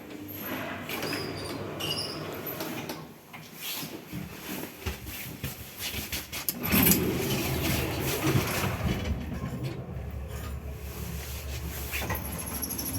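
Old MLZ passenger lift in operation: the doors and car clatter, then a steady low drone of the lift's drive sets in about five seconds in, with a loud knock a couple of seconds later.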